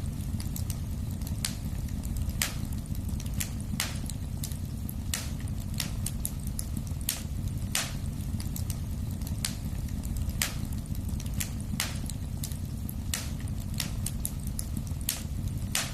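Wood fire in a fireplace crackling: irregular sharp pops and snaps, several a second at times, over a steady low rumble of burning.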